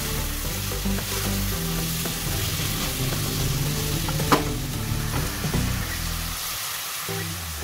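Mutton and onions sizzling in oil in a pan while a wooden spoon stirs them, with one sharp knock about four seconds in.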